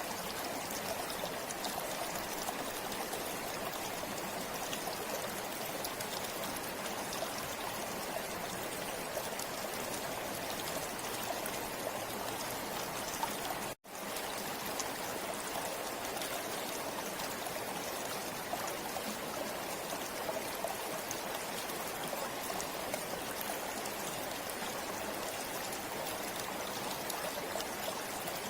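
Forest river water flowing steadily, a continuous rush and trickle. It cuts out for an instant about halfway through.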